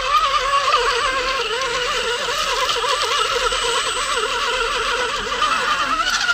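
Electric motor and gearbox whine of a radio-controlled rock crawler, its pitch wavering up and down constantly with the throttle as it crawls.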